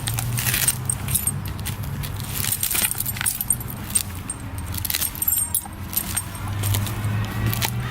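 Irregular small metallic jingling and clinking over a steady low rumble.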